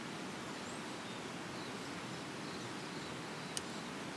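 Steady, even hiss of water noise, with one small sharp click about three and a half seconds in.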